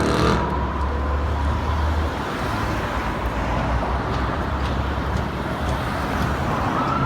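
Police car driving through traffic: a steady, even engine and road noise with no revving. Near the end a siren starts to wind up.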